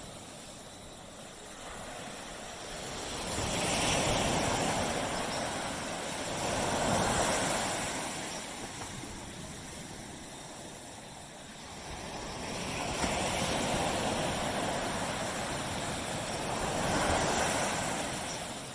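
Small tropical waves breaking and washing up a beach, the surf swelling and falling away in slow surges about every few seconds.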